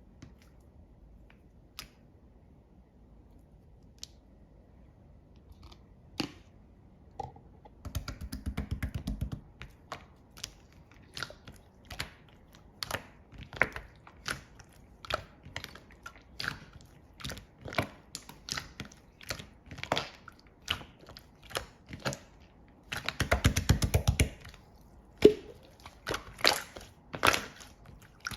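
Tangerine being squeezed by hand close to the microphone: irregular sharp wet clicks about once or twice a second, with two denser spells of crackling and squishing, about a third of the way in and again near the end.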